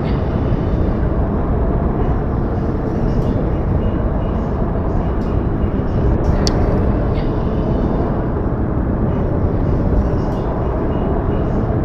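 Steady low rumbling outdoor noise from a snowy winter field recording, with a few faint ticks.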